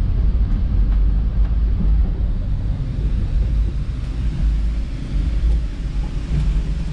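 Steady low rumble of a metre-gauge electric passenger train running along the track, heard from inside the passenger car.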